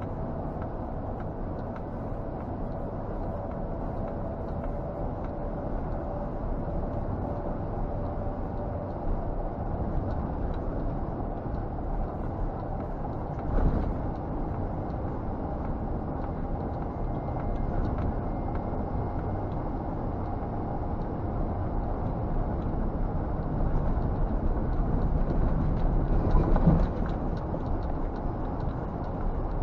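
Scania G460 truck's 13-litre inline-six diesel running while driving, heard from inside the cab as a steady drone with road noise. A louder thump comes about 14 seconds in and another near 27 seconds.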